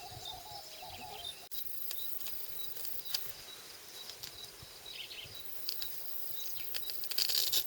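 Insects chirping: a short high-pitched chirp repeats about once a second over a steady hiss, with scattered faint clicks. The sound drops out suddenly for a moment about one and a half seconds in.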